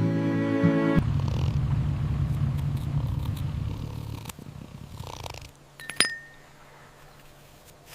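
A kitten purring in a steady low rumble after cello music stops about a second in; the purr fades out about halfway through. A short click follows.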